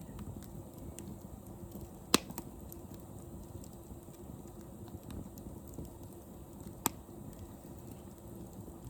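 Wood fire crackling in a fire pit: a steady low rush with small scattered ticks, and two sharp, loud pops, about two seconds in and again near seven seconds.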